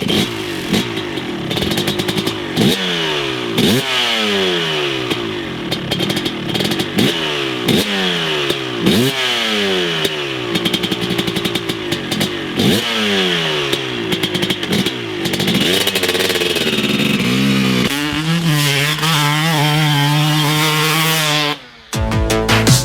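TM250 two-stroke dirt bike engine revving, its pitch jumping up sharply and falling away again, over and over. Near the end it holds a steadier pitch for a few seconds, and music begins in the last second.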